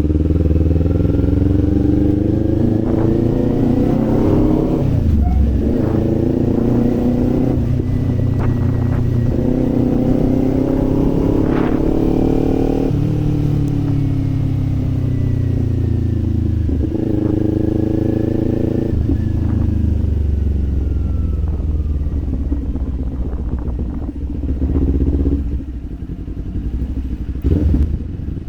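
Kawasaki Z400 parallel-twin engine and exhaust under way, revs rising as it pulls through the gears with shifts about five and thirteen seconds in, then falling as the bike eases off and slows near the end.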